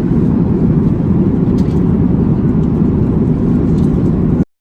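A loud, steady low rumble of vehicle noise, with a few faint clicks, that cuts off abruptly near the end.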